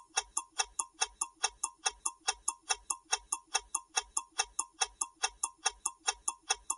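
Countdown timer sound effect: a steady clock-like ticking of about five ticks a second, marking the time to answer a quiz question.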